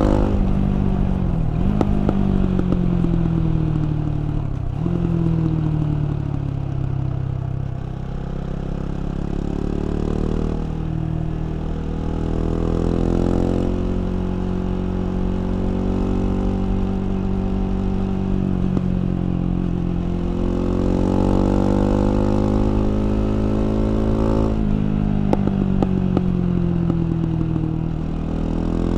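KTM 690 Duke's single-cylinder LC4 engine under riding. The revs drop over the first few seconds, climb again, hold fairly steady for a stretch, then fall once more near the end with a few short sharp cracks.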